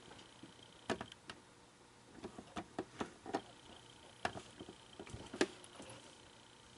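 Irregular small clicks and taps from hand work on an animatronic figure during a repair, about a dozen in all, the loudest about five and a half seconds in.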